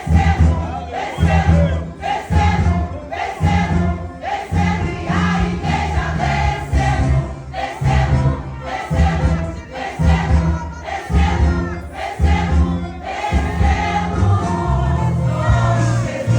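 Women's choir singing a Pentecostal gospel song in unison over a band accompaniment with a steady pulsing bass.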